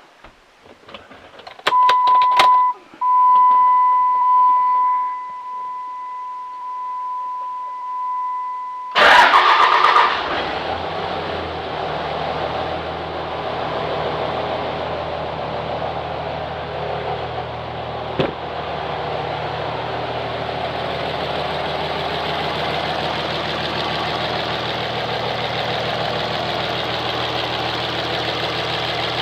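Clicks and a steady electronic warning tone for several seconds, then the 5.9 L Cummins inline-six turbo diesel cranks briefly, catches and settles into a steady idle. It starts after an injector was replaced to cure a crank-no-start fault.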